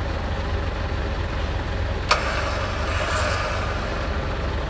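Off-road 4x4 engine idling with a steady low rumble. A sharp click about two seconds in is followed by about a second of hissing noise.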